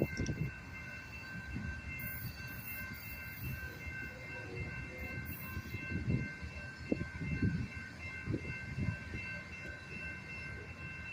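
Freight cars rolling past, their wheels knocking irregularly over the rail joints, with a steady high ringing tone held throughout.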